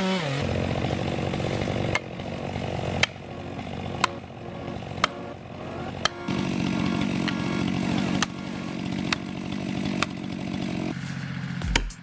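Chainsaw running and cutting wood, its loudness shifting several times, with a few sharp clicks along the way.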